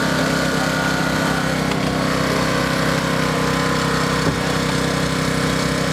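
An engine running steadily at a constant speed, with a faint knock about four seconds in.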